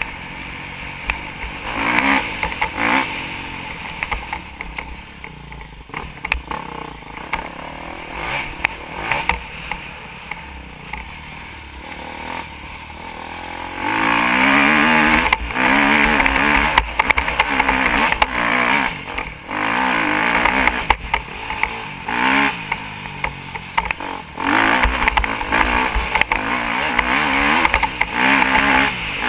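Motocross dirt bike engine revving up and down repeatedly as the bike is ridden. It gets louder and harder-revved about halfway through.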